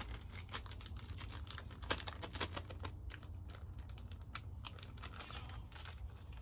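Small plastic zip-top bags crinkling and rustling as they are handled, with scattered light crackles and clicks. A steady low hum runs underneath.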